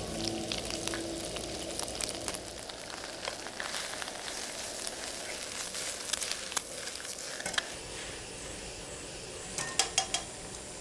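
Rice noodles and vegetables sizzling as they stir-fry in a hot wok, with sharp clicks and knocks of chopsticks against the wok as it is tossed and stirred, three quick clicks near the end.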